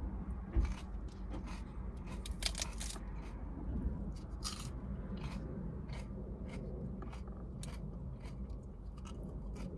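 Raw lettuce leaves being bitten and chewed: irregular crisp crunches, several a second at times, over a steady low rumble.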